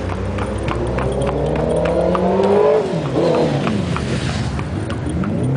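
A motorbike engine approaches and passes, its pitch rising and then dropping away about three seconds in. Throughout, a pony's hooves clip-clop steadily on the road.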